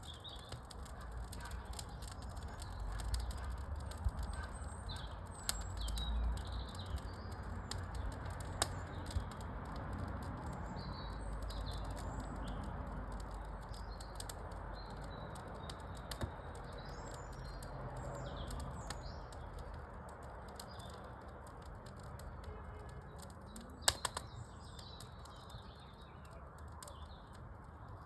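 Small birds chirping on and off, with a steady low rumble and scattered sharp crackles from a wood fire in a fireplace; a sharp double crack stands out about 24 seconds in.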